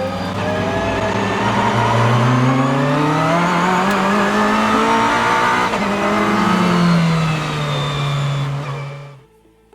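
Vehicle engine revving hard. Its pitch climbs over the first few seconds, dips, rises again, then falls back and cuts off suddenly near the end.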